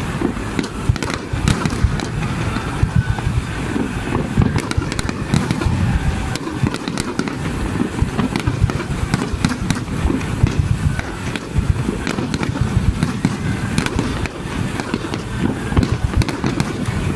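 Fireworks display at close range: a continuous barrage of deep booms from bursting shells, overlaid with rapid crackling.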